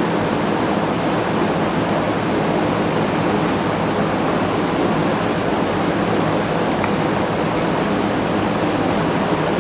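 Steady rushing of air with a low hum underneath, unchanging throughout, as from a large fan running.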